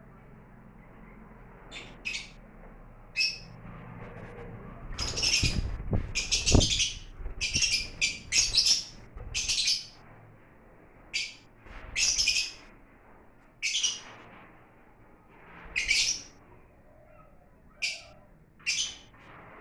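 Lovebirds calling: short, shrill, high-pitched chirps, bunched together for a few seconds about a quarter of the way in, then coming singly every second or two. A few dull low thuds sound among the thickest chirping.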